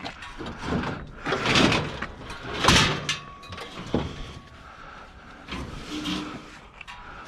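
A few rushing scrapes and knocks from heavy scrap being handled and moved, the two loudest scrapes about one and a half and two and a half seconds in.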